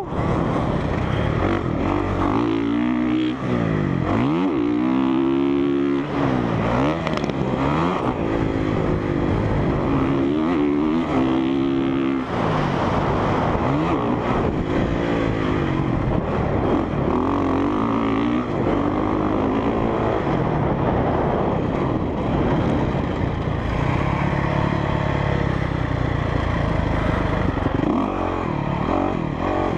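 Honda CRF450R motocross bike's single-cylinder four-stroke engine, heard from a helmet cam while riding a track. It revs up and drops off again and again, every second or two, through corners and jumps, over a steady rush of wind and track noise.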